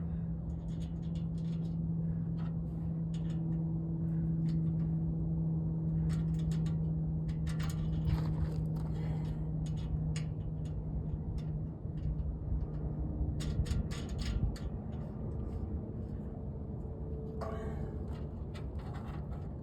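A motor hums steadily, then fades out about twelve seconds in, with scattered clicks and scrapes over a low rumble.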